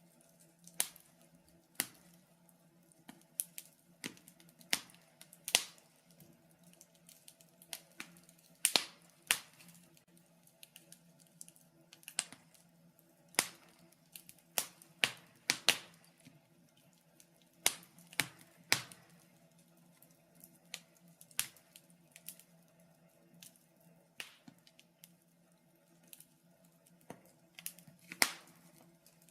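Wood fire crackling in a fireplace: irregular sharp pops and snaps, a few louder than the rest, over a faint steady low hum.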